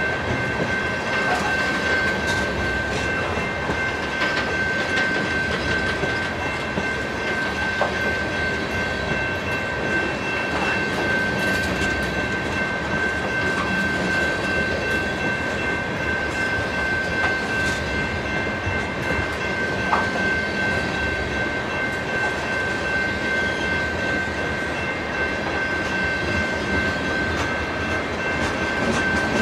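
Freight train tank cars rolling past at close range: a continuous rumble and clatter of steel wheels on the rails, with a few sharp clicks. A steady high-pitched ringing tone runs under it.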